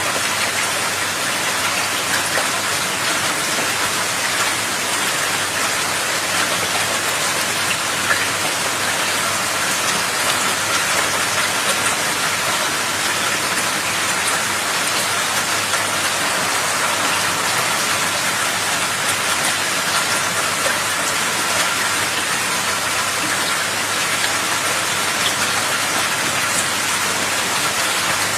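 Heavy rain falling steadily, a dense unbroken hiss of drops on surfaces.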